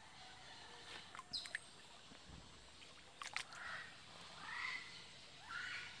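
Birds calling: a few sharp ticks, then from about three and a half seconds in a series of short, arched call notes, over faint background hiss.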